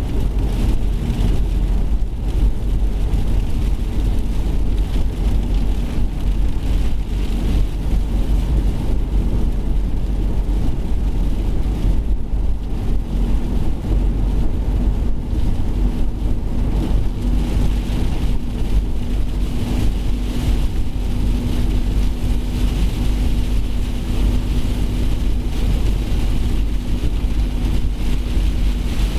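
Steady low rumble of strong storm wind buffeting the microphone, with a steady hum joining about twelve seconds in.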